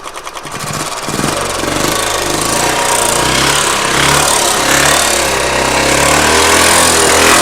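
Royal Enfield single-cylinder UCE engine running on the stand, going from a fast ticking idle to a louder, revved-up run about a second in, its pitch wavering as the throttle is held open. It carries a mechanical noise that the mechanic suspects is play in the timing gears.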